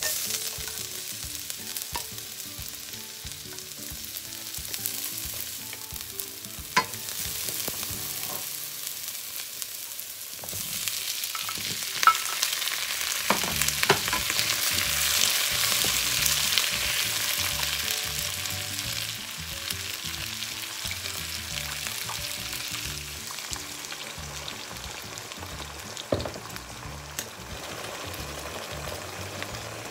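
Garlic and scallion sizzling in hot oil in a nonstick wok. About ten seconds in, the sizzle grows louder as the fried potato, eggplant and bell pepper are stirred through with a wooden spatula, which knocks against the pan a few times. Soft background music plays underneath.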